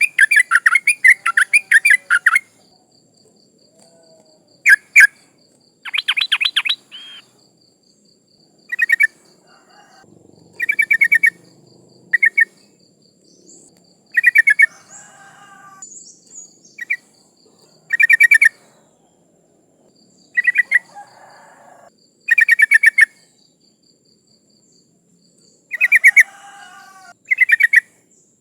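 Yellow-vented bulbul (trucukan) calling: short bursts of rapid, bubbly chattering notes, repeated every one to three seconds. The uploader presents it as a female calling for males. A faint, steady high-pitched whine runs underneath.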